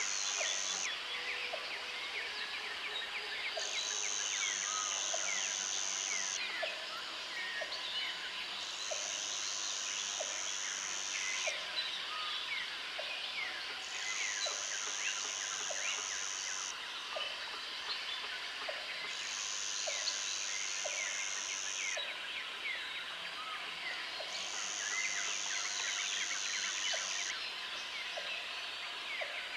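Jungle ambience of birds and insects: a high insect buzz comes in bouts of two to three seconds with short gaps, over a dense mesh of bird and insect chirps, with a low tick repeating about once a second.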